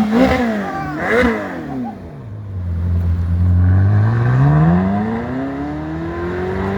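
A car engine revved in two quick blips, then holding a low steady note before rising steadily in pitch as the car accelerates away.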